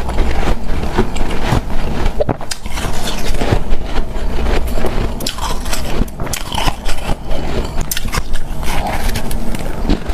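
A person biting and chewing hard, powdery snow-type freezer ice: a continuous run of irregular crisp crunches.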